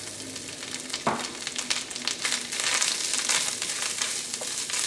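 Grated coconut sizzling in hot ghee in a stainless-steel wok while a spatula stirs and scrapes it around the pan; the sizzle grows louder about halfway through. A single knock about a second in.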